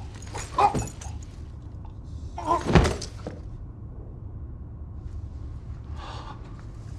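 Steady low rumble of a high-speed train's interior, with a few short sudden sounds on top, the loudest about three seconds in.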